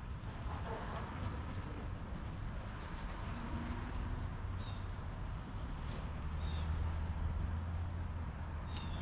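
Outdoor ambience: a steady, high insect drone like crickets throughout, over a low rumble that grows louder in the second half. A few faint short bird chirps come near the middle and end.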